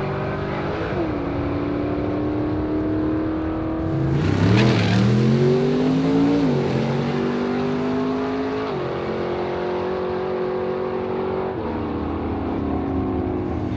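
Car engine running under load. Its pitch holds fairly steady, rises between about four and six and a half seconds in, and steps down several times. There is a brief loud burst about four and a half seconds in.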